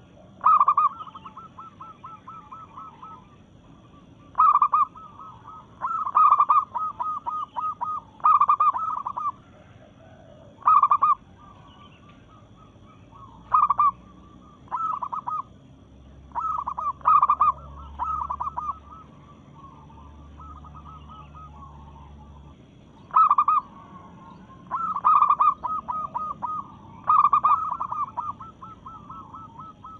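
A female zebra dove (perkutut) calling again and again: each phrase is a loud opening note followed by a quick run of short, fast pulses, about a dozen phrases in all with short pauses between them. It is a hen's call to males, used as a lure to make other perkutut answer.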